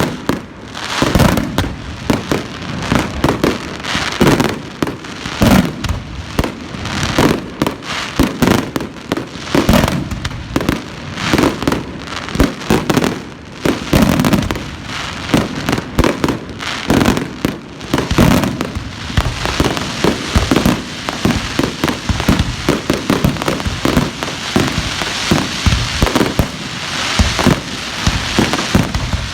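Fireworks display: a rapid, continuous string of bangs and booms, growing into a denser crackling barrage in the second half.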